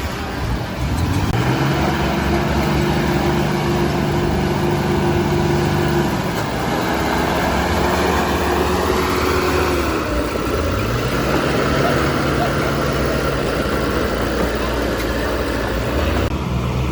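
Heavy diesel engine of a construction machine running under load, its pitch climbing and holding, then dropping back and climbing again three times.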